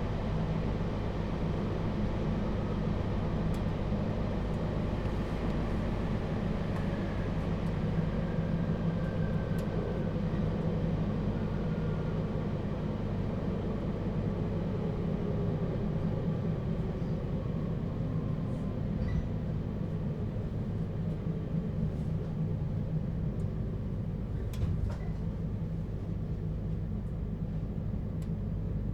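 Onboard running sound of a JR Hokkaido 721 series electric train car with a Toshiba GTO inverter: a steady rumble of wheels on rail and a low hum, with a faint inverter whine gliding in pitch and a few clicks about 25 seconds in. The train is approaching its next stop.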